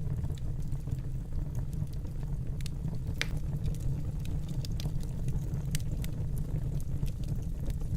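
Fire burning in a fireplace: a steady low rumble with scattered sharp crackles and pops, one louder pop about three seconds in.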